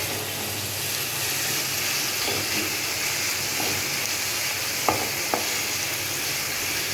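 Onion and garlic frying in oil with turmeric and salt over a high gas flame: a steady sizzle, with a utensil knocking twice against the pan about five seconds in.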